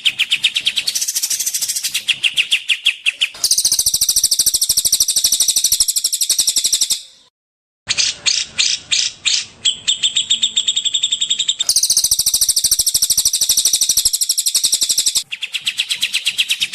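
Recorded songbird song for bird training: fast runs of repeated high chirping notes, about ten a second, switching between several different patterns. It stops dead for about half a second near the middle, then resumes.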